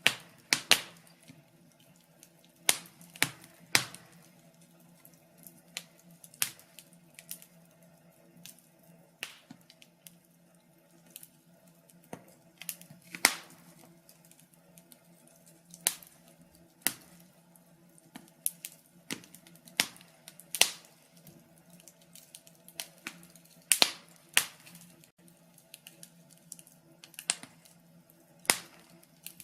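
Wood fire crackling: irregular sharp pops and snaps, unevenly spaced, over a faint steady low hum.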